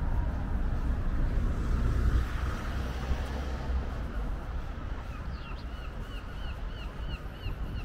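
A bird calling in a quick series of short, repeated notes, about three a second, starting about five seconds in, over a steady low outdoor rumble.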